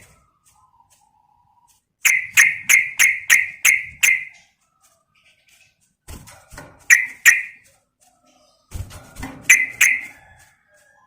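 Yellow-vented bulbul (trucukan) calling in sharp, repeated chattering notes, about three a second. There are three runs: seven notes, then a short group, then a short group near the end.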